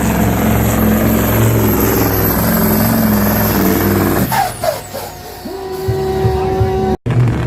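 Supersport pulling truck's diesel engine running hard under full load with a high whistle over it, cutting off abruptly about four seconds in, leaving a quieter spell with a faint whine before engine sound returns near the end.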